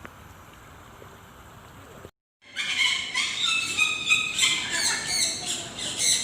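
A flock of birds squawking and squealing, with many overlapping high calls. The calls start suddenly about two and a half seconds in, after a brief dropout; before that there is only faint steady background noise.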